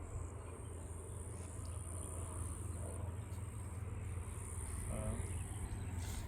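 Insects trilling: a high, steady buzz that runs in long bouts and breaks off between them, over a low steady hum.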